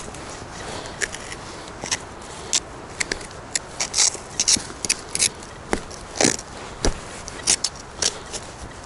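Dry leaf litter and twigs crunching and crackling in short, irregular bursts, several a second, over a steady background hiss.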